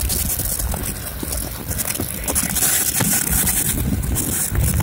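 Passenger train running at speed, heard at an open carriage window: a steady low rumble of the wheels on the track with scattered short clicks and rattles, and a hiss of wind over it.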